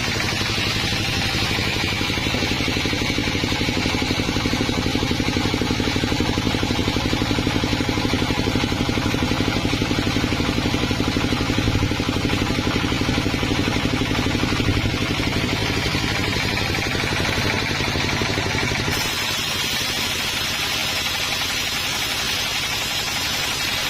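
Sawmill machinery running: an engine going steadily with a fast, even beat. The sound changes abruptly about nineteen seconds in.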